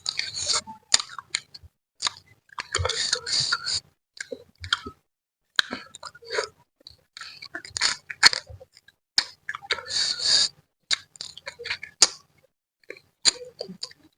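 Close-miked eating sounds from a spicy manyung fish-head mangut: wet chewing and lip smacking, with four longer hissing sucks or slurps, near the start, about three seconds in, about eight seconds in and about ten seconds in.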